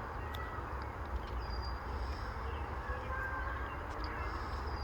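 Wild birds calling: a few thin, high whistled notes and some fainter calls, over a steady low rumble.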